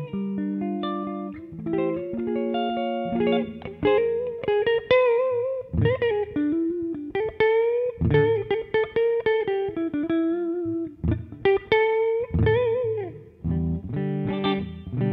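Florenze SG-style electric guitar being played: strummed chords first, then a single-note lead line with string bends and vibrato, going back to chords near the end.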